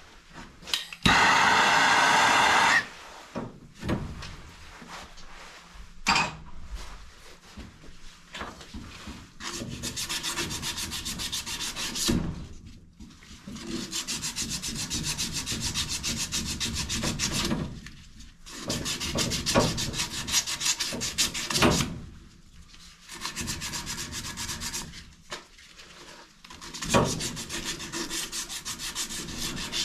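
Copper pipe and fittings being scrubbed clean with an abrasive by hand, fast scratching strokes in several runs of a few seconds with short pauses, the preparation of joints for soldering. About a second in there is a brief loud rushing burst of about two seconds.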